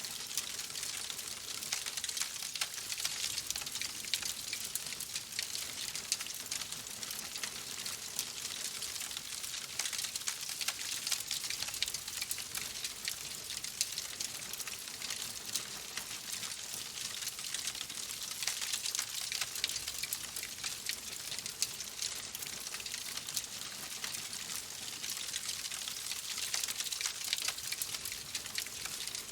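Wood fire crackling steadily, a dense run of small pops and snaps over a soft hiss.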